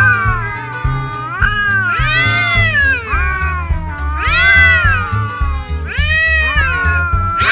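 Domestic cats yowling in long, drawn-out wails that rise and fall in pitch, about four in a row, over background music with a steady bass beat.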